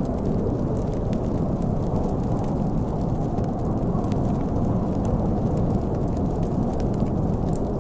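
Snowstorm wind blowing as a steady low rumble, with a wood fire crackling over it in scattered small, sharp pops.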